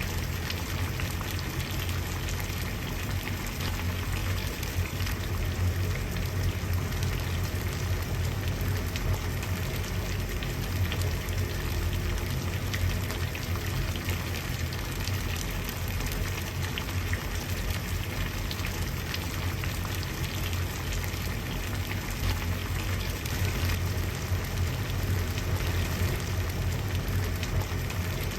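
Water at a steady boil: dense bubbling and crackling over a low rumble.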